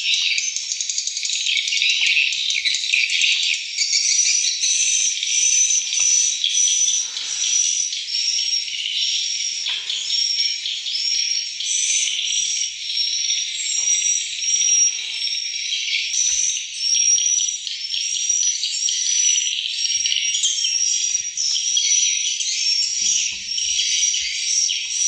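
Many swiftlets twittering and chirping in a dense, continuous chorus. In the second half, short high chirps repeat in a steady run.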